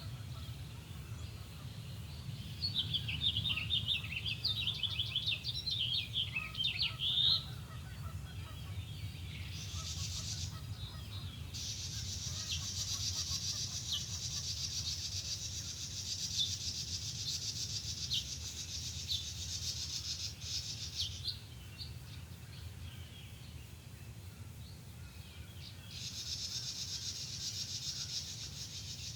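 Lakeside dawn birdsong. A quick, chattering song runs from about two and a half seconds in to about seven, then long high trills come and go over a steady low rumble.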